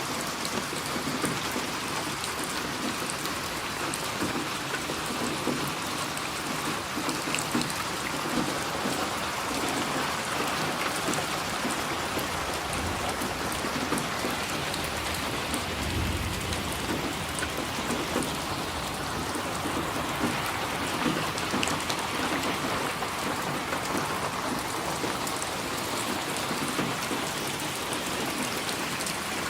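Steady rain falling and pattering on surfaces, with a low rumble of distant thunder swelling about halfway through.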